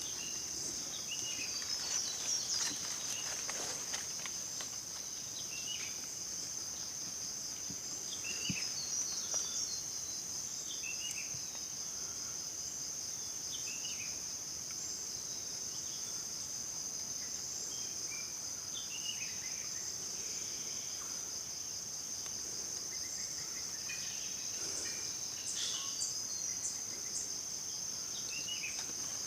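Steady high-pitched drone of insects, with short bird calls scattered through it.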